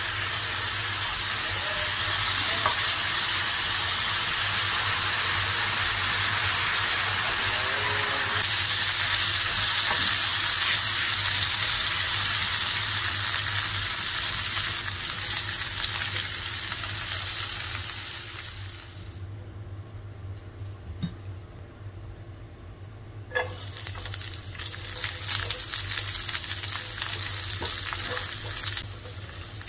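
Food sizzling as it fries in hot oil in a pan, a steady hiss that grows louder about eight seconds in. It drops much quieter for about four seconds past the middle, then comes back, with a few scattered clicks.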